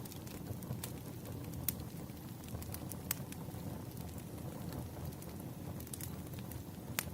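Wood fire burning: a steady low rumble of flames with scattered sharp crackles and pops, the loudest pop near the end.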